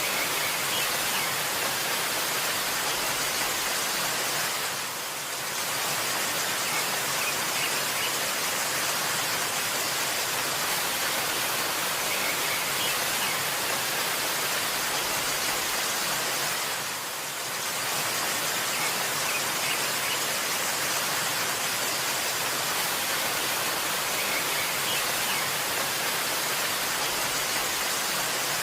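Steady rushing water of a waterfall, a dense even hiss that dips briefly in level twice, about 5 and 17 seconds in.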